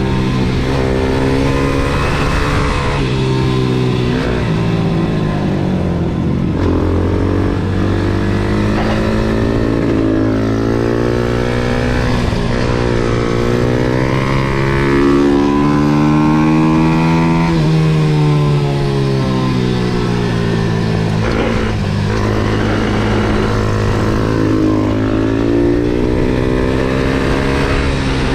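MRF 140 SM pit bike's single-cylinder four-stroke engine being ridden hard around a track: revs climb through the gears, then drop away on braking and rise again out of the corners, over and over.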